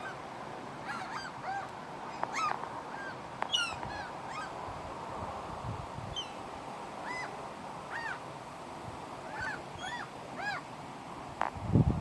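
Gulls calling: many short, arched calls, one after another and sometimes overlapping, throughout.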